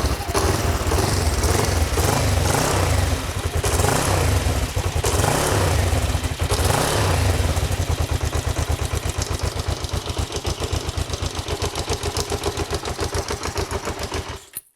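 Kawasaki GPZ500S parallel-twin engine running after years of standing. It is revved several times in the first seven seconds, then runs on more steadily with an even pulse before it cuts out suddenly near the end, which the owner puts down to probably running out of fuel.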